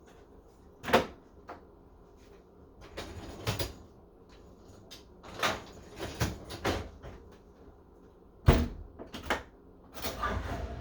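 Dishes and kitchen items knocking and clattering as they are set into a dishwasher: a string of separate clunks, the sharpest about a second in and another later on.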